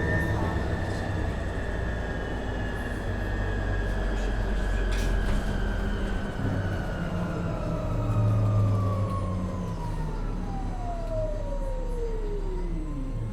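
Inside a MAN Lion's City hybrid city bus: the electric drive's whine holds high, then glides steadily down in pitch through the second half as the bus slows, over the steady low rumble of the running drivetrain.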